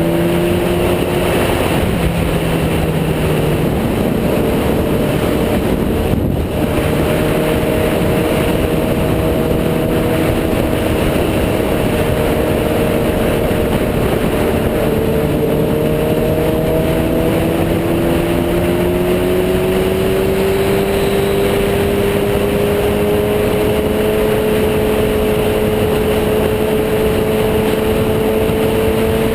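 Sport motorcycle engine running at a steady cruise under a constant rushing noise, its pitch holding nearly level and creeping slowly upward over the second half.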